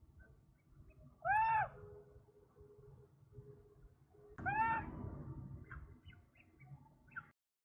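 Birds calling: two loud arched, rise-and-fall calls about three seconds apart, then a few short faint chirps. The sound cuts off abruptly shortly before the end.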